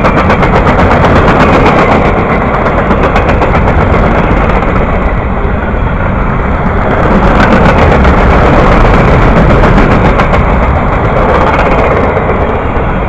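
Freight train of empty flatcars rolling past close by: steel wheels rumbling on the rails with rapid, irregular clicking and clatter.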